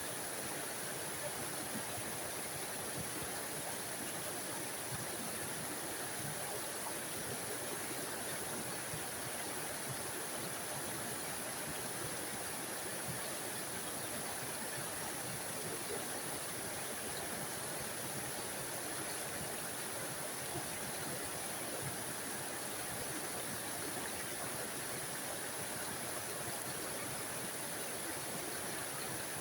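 Small forest waterfall: water splashing and rushing over rocks in a small stream, a steady, even rush with no breaks.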